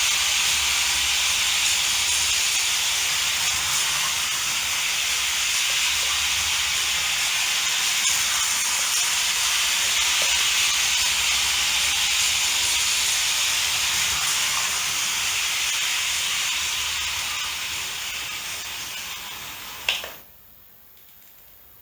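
HO-scale model freight train rolling on plastic-based Märklin C Track, a steady rushing, rattling hiss of wheels on rails. About twenty seconds in there is a sharp click, and the sound drops away to much quieter.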